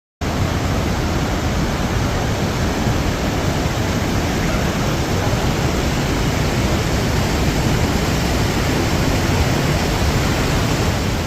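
Loud, steady roar of the Iguazú Falls at close range, an unbroken rush of falling water that cuts in suddenly just after the start.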